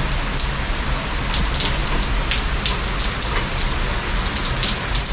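Steady rain falling, with many individual drops hitting close by in quick, irregular succession.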